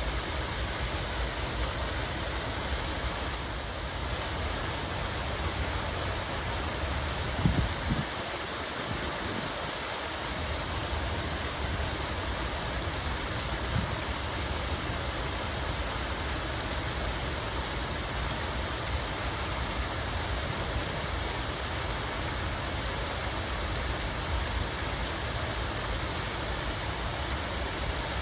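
Steady rush of running water, with a low rumble underneath and a couple of brief low thumps about seven to eight seconds in.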